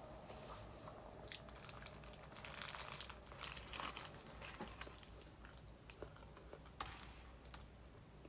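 Faint close-up eating sounds: chewing and crunching on fried fast food, with scattered crackles that come thickest around the middle and one sharp click near the end.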